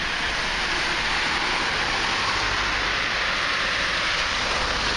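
Road traffic on rain-wet streets: a steady, even hiss of tyres on wet asphalt.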